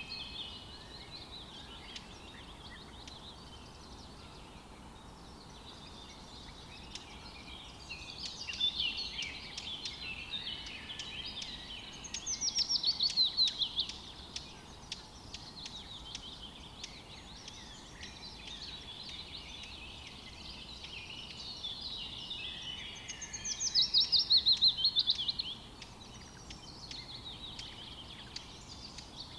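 Songbirds singing and chirping over a low background hiss. Two louder songs stand out, one near the middle and one toward the end, each a quick run of notes falling in pitch and lasting about two seconds.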